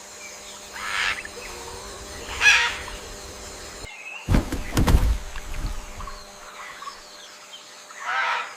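Short, harsh bird squawks, a few separate calls, with a burst of heavy low thuds about halfway through.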